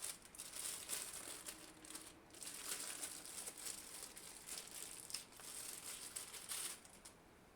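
Crinkling and rustling of packaging as drill-press parts are unwrapped and handled, with a few faint clicks.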